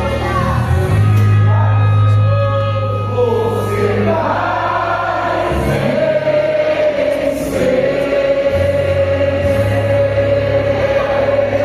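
Church choir singing a gospel song over steady low instrumental backing, settling into one long held note through the second half.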